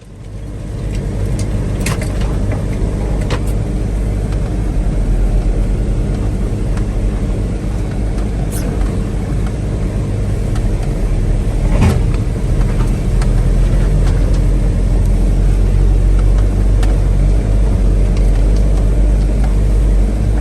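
A 1985 Toyota pickup's 22RE four-cylinder engine running steadily as the truck is driven, with a few sharp knocks and rattles from the truck going over bumps, the loudest about twelve seconds in.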